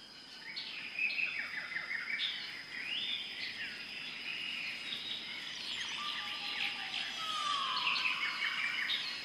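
Several birds chirping and trilling over one another, with a steady high tone running underneath. A longer, lower call enters about two-thirds of the way through.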